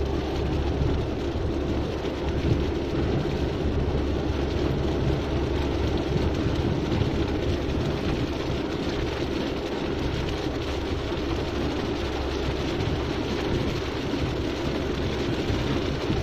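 Steady rumble and hiss of a vehicle travelling along a road in heavy rain, engine and road noise mixed with rain.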